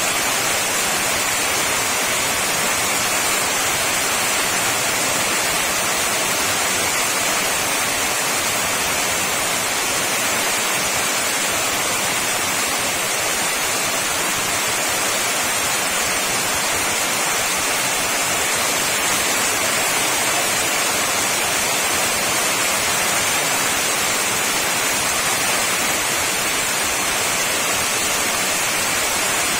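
Heavy rain falling steadily: a dense, even hiss with no change in strength.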